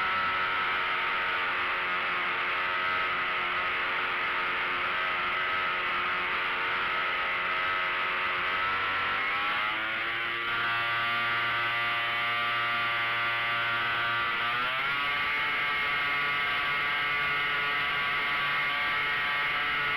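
Engine and propeller of a 1/4-scale Hangar 9 Taylorcraft RC model airplane running steadily in flight, heard from a camera mounted on the plane. The pitch rises about halfway through and again about three quarters through as the throttle is opened.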